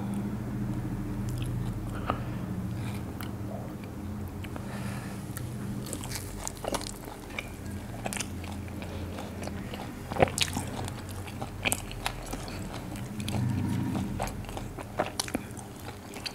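Close-up eating sounds of butter kulcha flatbread with creamy white chicken being bitten and chewed, with wet mouth noises and scattered sharp clicks.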